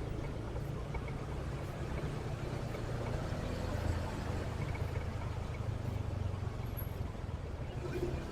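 Motorcycle engine running steadily, with road and traffic noise around it; a constant low hum under an even hiss, with no sudden events.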